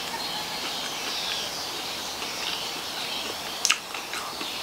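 A person chewing a crunchy nut snack with mouth closed, with a few sharp crunches near the end, over a steady high hiss.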